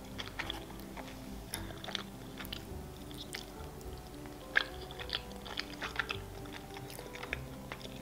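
Close-miked chewing of a mouthful of sushi roll, with soft wet mouth clicks and one sharper click about halfway through. Quiet background music with slow, held notes plays underneath.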